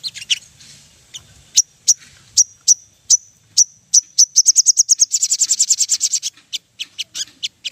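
A sogon songbird calling in sharp, high chip notes that come faster and faster, run into a quick rattling trill about four seconds in, then break back into separate chips. It is a lure call used to set other sogon birds singing.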